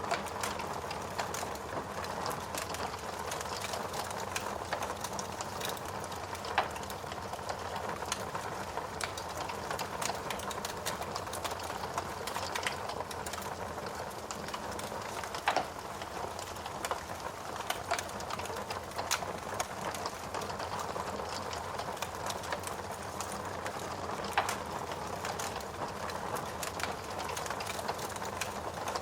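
Logs burning in a fireplace, crackling steadily with a dense run of small clicks and a few louder pops scattered through.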